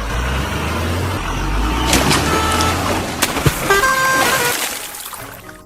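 A vehicle's engine rumbling low and steady, with a few short horn toots about two to four seconds in, then fading out near the end.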